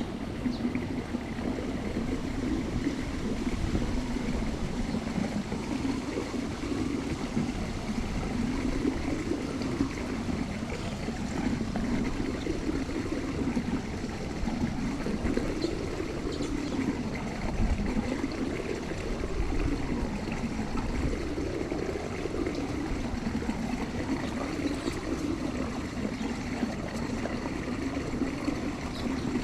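Running water trickling and gurgling steadily, with a slow wavering churn.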